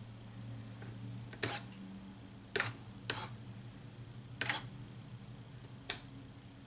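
Model submarine's bow-plane extension mechanism: five short, sharp mechanical clicks spread over a few seconds, over a low steady hum.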